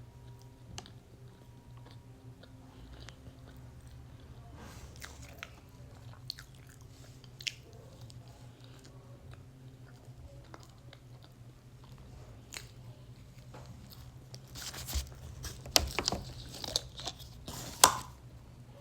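Close-miked chewing and biting of cake, with short wet mouth clicks scattered through, louder and busier in the last few seconds. A steady low hum runs underneath.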